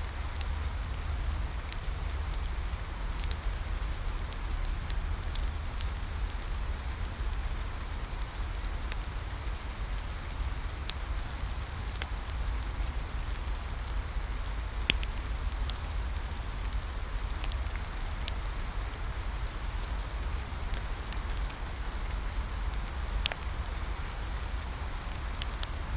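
Steady rain falling, with a low rumble underneath and scattered sharp crackles from a wood fire, a few of them louder pops.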